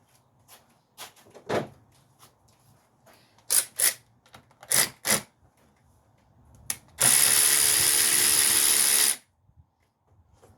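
Scattered clicks and knocks of tools and parts being handled, then a handheld power drill or driver runs steadily for about two seconds and stops, loosening a fastener on the car's air intake.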